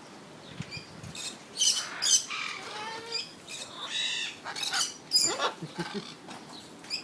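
Caged tropical pet birds squawking and chirping: a series of short separate calls, some gliding in pitch, loudest about two seconds in and again about five seconds in.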